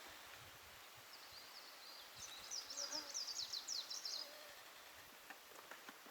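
A small songbird singing one song of about three seconds: a high, rapid run of short downward-slurred notes, softer at first and then louder, stopping abruptly.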